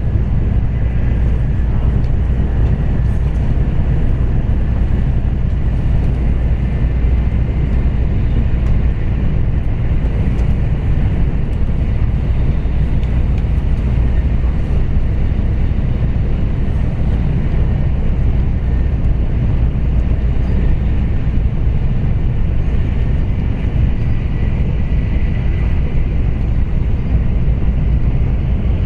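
Running noise of an N700A Shinkansen heard inside the passenger cabin at speed: a steady low rumble of wheels on rail, with a faint steady high whine over it.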